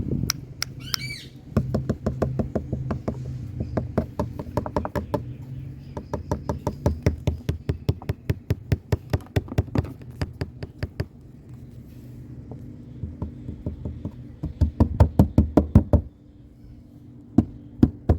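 Rapid series of sharp clicks or knocks, several a second, stopping abruptly near the end, over a steady low hum, with one short squawk from an Indian green parrot (rose-ringed parakeet) about a second in.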